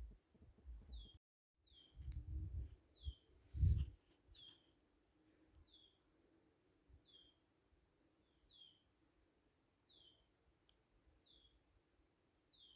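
A songbird repeating a two-note call over and over, a short high note followed by a falling note, about once every second and a half. Low rumbling thumps come and go in the first few seconds, the loudest near four seconds in, and the sound cuts out completely for a moment about a second in.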